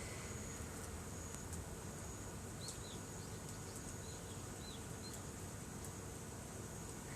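Quiet rural outdoor ambience: a thin, steady high buzz of insects, with a handful of short high chirps from small birds around the middle and a few faint ticks.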